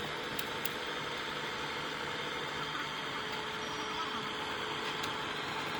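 An engine running steadily at an even speed, with a couple of faint clicks in the first second.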